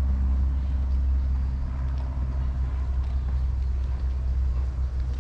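Wind buffeting the microphone, a loud, uneven low rumble, with a faint low hum that fades out about two seconds in.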